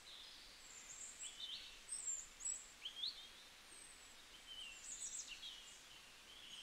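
Faint birdsong: scattered short chirps and quick rising and falling whistles from small birds, over a light steady hiss.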